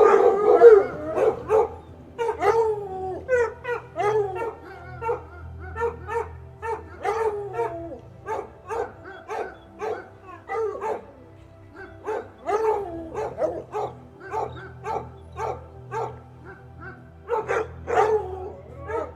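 A dog barking and yelping over and over, about one to two barks a second with short pauses, opening with a longer, wavering cry.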